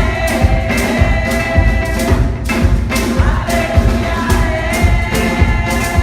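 Gospel song sung by a group of voices over a band, with a steady drum beat.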